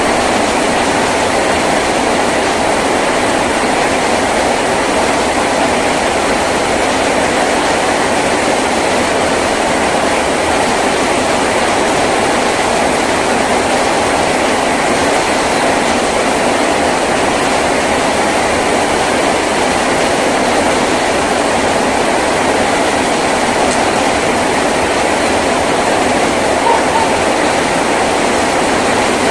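Heavy rain falling steadily on a tin roof, a dense, even noise that stays at one level.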